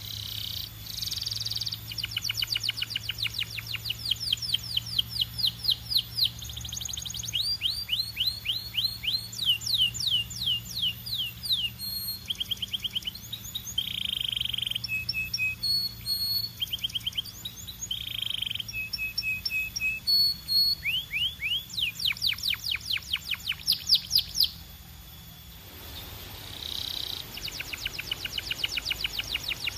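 Belgian canary singing: fast rolling trills of repeated falling whistled notes, mixed with short buzzy notes. The song breaks off for about a second near the end, then starts again.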